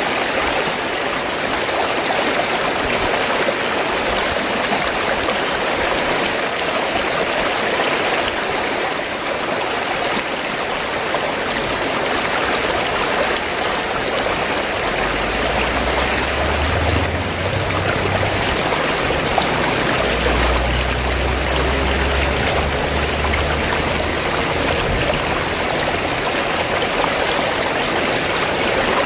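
Fast-flowing stream, water rushing and gurgling steadily. A low rumble joins in about halfway through for several seconds.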